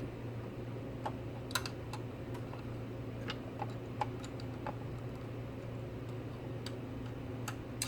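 Scattered light clicks and taps of small plastic miniature pieces being handled, irregular and about a dozen in all, over a steady low hum.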